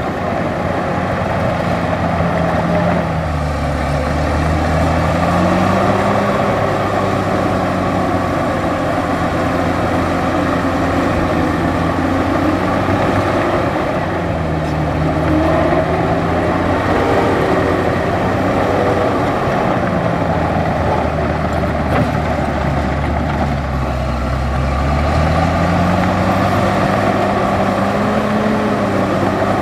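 Large bulldozer's diesel engine running under load while pushing dirt, its pitch sagging and recovering three times as the load comes on and eases off.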